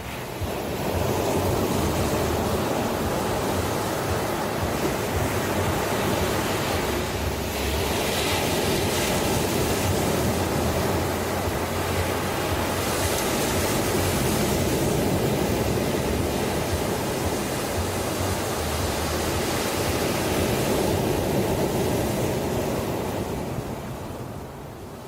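Ocean surf: a long, steady rush of breaking waves that swells in about a second in, surges and eases slowly, then fades back near the end.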